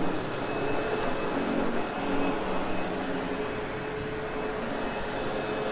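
Sebo X8 upright vacuum cleaner running steadily, a constant whir with a faint hum.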